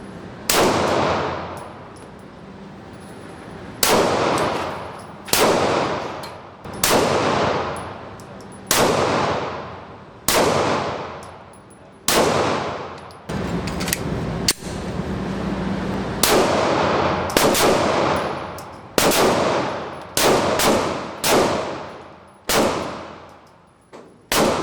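A series of gunshots, roughly one every one to two seconds at an irregular slow-fire pace. Each shot is followed by a long echoing decay.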